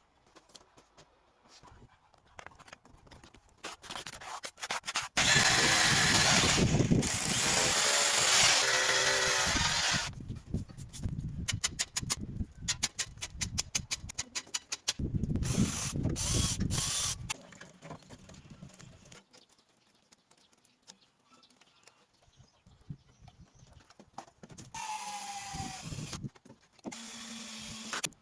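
Workshop tool work: a loud stretch of grinding or drilling noise, a run of rapid clicking like a ratchet, then another short burst of tool noise and quieter scraping.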